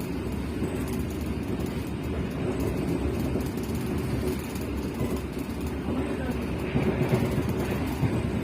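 Passenger train running along the rails, a steady rumble of wheels and carriage that grows a little louder and rougher near the end.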